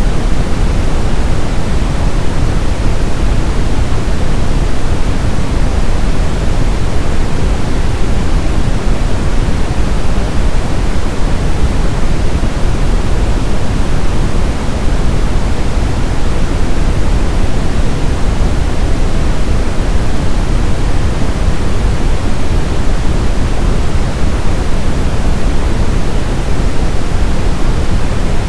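Brown noise: a steady, unchanging synthetic rumbling hiss, loudest in the deep bass and falling away toward the treble.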